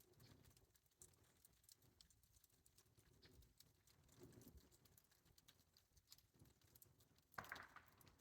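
Near silence: faint scattered ticks and crackles of ice in ice-glazed trees, with one louder crunch near the end.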